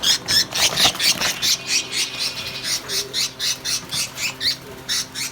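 A flock of caged budgerigars squawking and chattering, with many quick, shrill calls overlapping several times a second.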